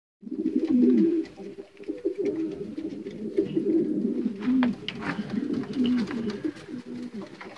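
Many racing pigeons cooing together in a small loft, low overlapping warbling calls, with scattered light taps and clicks.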